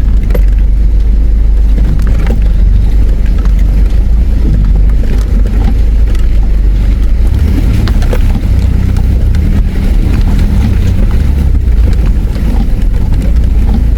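Four-wheel drive climbing a steep river-crossing exit in low gear: a steady, loud low engine rumble, with scattered short knocks as the tyres work over the rocky track.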